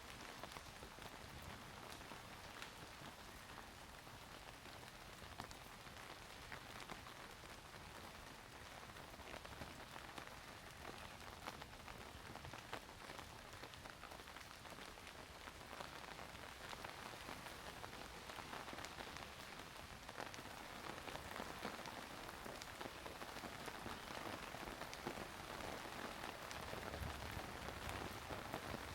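Steady rain falling, with many small drops pattering on surfaces, growing slightly heavier over the stretch.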